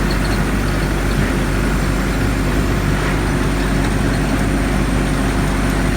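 Mechanical coffee harvester running in the field, a steady, unbroken engine drone.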